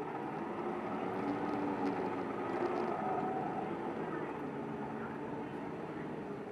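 Kanto Bus city bus heard from inside while running: the engine note rises a little in the first second, then holds steady as it cruises and eases off slightly near the end.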